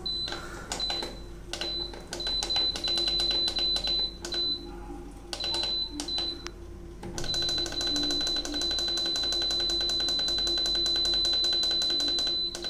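Water softener control valve's electronic keypad beeping rapidly as its buttons are worked through the timing settings: short runs of quick beeps, then one long unbroken run of fast beeps from about seven seconds in.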